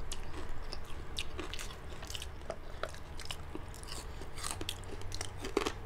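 People chewing and crunching crispy pork chicharon bagnet (deep-fried pork belly cracklings): a string of irregular crisp crunches as the pieces break between the teeth.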